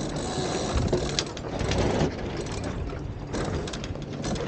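Wind and water rushing past a Flying Scot sailboat under way, with scattered clicks and rattles from its rigging and sheet hardware as the jib sheet is worked at its cleat.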